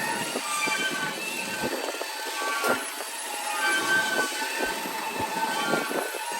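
Car wash tunnel equipment running: a steady hiss with short, high squeaks and scattered knocks.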